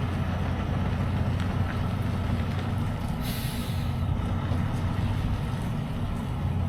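Semi-truck's diesel engine running steadily, a low drone heard from inside the cab. A short hiss of air a little past three seconds in.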